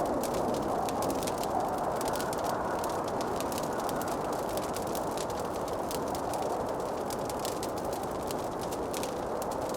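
Wood fire in a fireplace crackling, with many small, sharp pops over a continuous low rushing noise.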